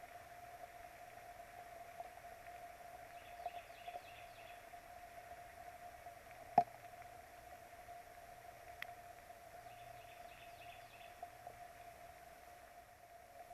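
Faint outdoor ambience from a bald eagle nest camera in the rain: a steady hiss and a constant faint hum-like tone. Two short runs of high bird chirping come about three and ten seconds in, and a single sharp tap sounds about halfway through.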